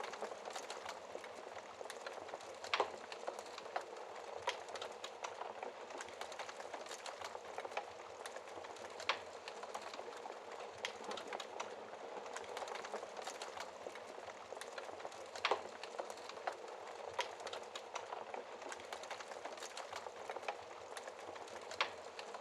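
Wood logs burning in a fireplace: a steady hiss of flame with constant fine crackling and four louder pops spaced about six seconds apart.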